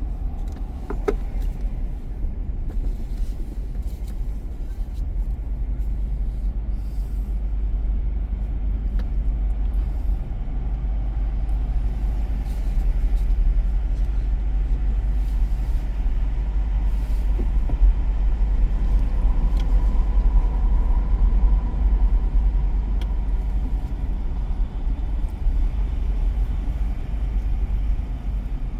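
Car driving along a city street: a steady low rumble of engine and tyres on the road, swelling a little past the middle.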